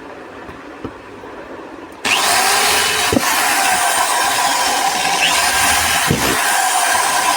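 Handheld electric drill starting suddenly about two seconds in and running loud and steady, its pitch wavering slightly, after a few faint handling clicks.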